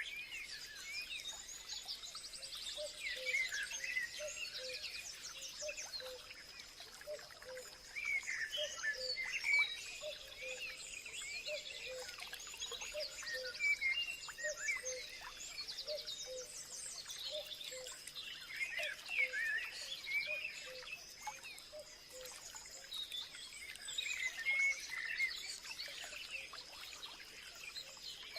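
Dense chorus of many wild birds chirping, trilling and singing over one another, with a steady high tone underneath and a low note repeated over and over.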